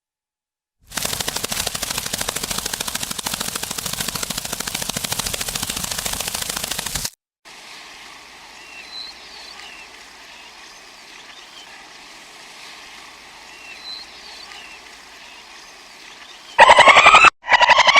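Rattlesnake rattling its tail: a loud, fast, dry buzzing rattle for about six seconds, starting about a second in. It is followed by quieter outdoor background with faint bird chirps, and near the end by loud, repeated pulsing animal calls.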